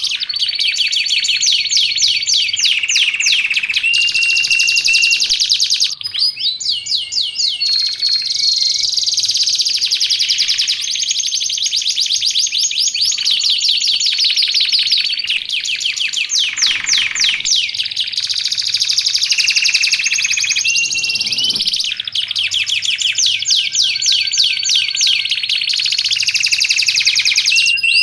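Domestic canary in full, nonstop song: fast trills of rapidly repeated notes alternating with held high whistled notes and short glides, one phrase running straight into the next.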